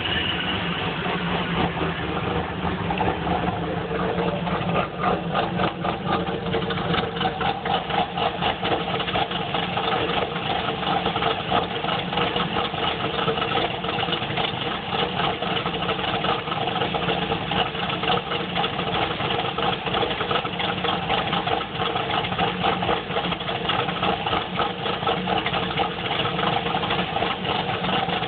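1994 Chevrolet Camaro's 3.4-litre V6 idling rough, with an uneven, lopey beat that sounds like an aftermarket camshaft although it has a stock cam. The engine is running rich, for a reason the owner hasn't found.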